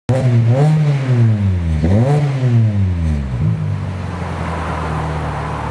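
Kia K5 2.0 petrol four-cylinder's exhaust note through an aftermarket valved (variable) exhaust with dual mufflers: the engine is blipped twice, each rev rising and falling back, then settles to a steady idle near the end.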